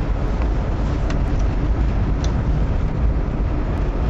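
Steady low road and engine rumble inside a Subaru's cabin as it drives along a snow-covered road.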